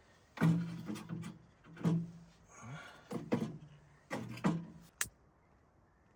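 A man's short, low wordless vocal sounds, about four of them, over light handling noise, then a single sharp click about five seconds in.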